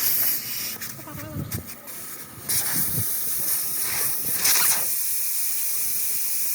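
Pressurized air hissing. It starts abruptly, comes in uneven spurts with a few low knocks for the first couple of seconds, then runs steadily from about two and a half seconds in.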